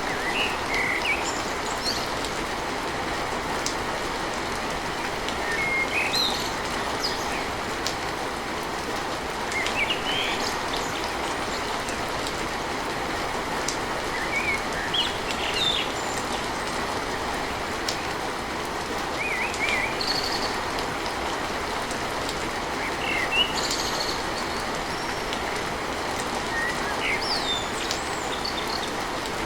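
Steady rain falling on a tin roof, with short bird chirps breaking in every few seconds.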